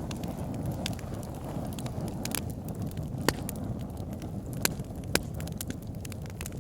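Wood fire burning in a log burner: a steady low rumble of flames with irregular sharp crackles and pops of burning logs, the loudest pops about three and five seconds in.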